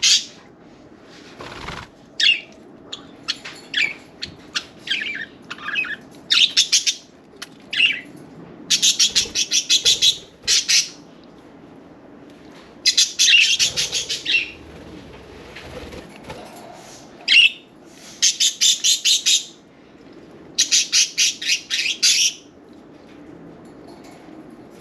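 Pet budgerigars chirping, with repeated bursts of rapid pulses about a second or two long, typical of wing flapping.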